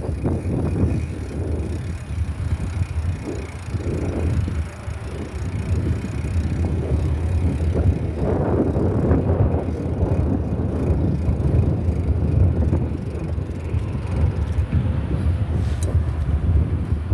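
Riding noise from a moving bicycle: wind rumbling on the microphone together with tyre and road noise, a steady low rumble that swells and eases without a break.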